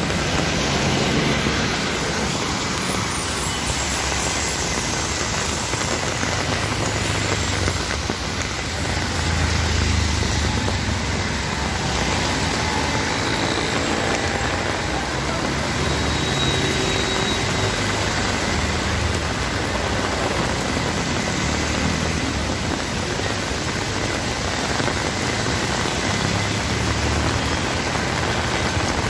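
Heavy rain pouring onto a wet street, a steady hiss, mixed with the low rumble of traffic engines such as auto-rickshaws and scooters, which swells as a vehicle passes about ten seconds in.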